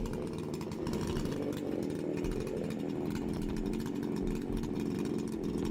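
Makita chainsaw running at a steady high speed while cutting through wood.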